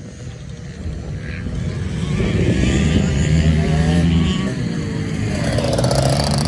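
Dirt bike engine running. It grows louder about two seconds in as the bike comes closer, holds a steady pitch, then shifts up and down near the end.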